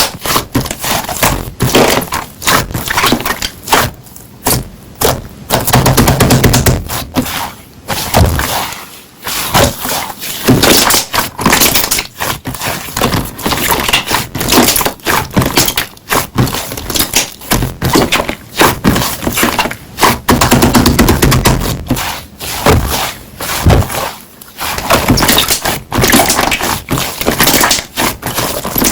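Slime being squeezed and pressed by hand, with dense crackling and popping throughout.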